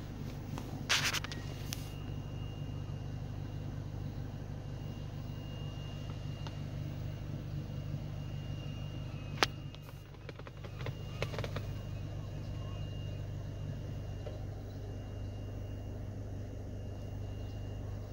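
The Fiat 500 Abarth's engine idling, a steady low hum heard inside the cabin. A few sharp clicks and knocks, the loudest about halfway through.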